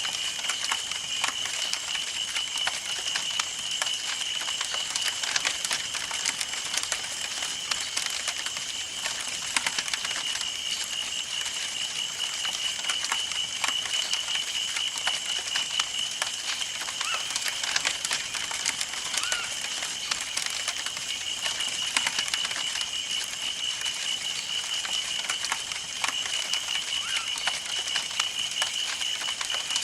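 Wood campfire burning, crackling with many small sharp pops and snaps, with a steady high pulsing trill running underneath.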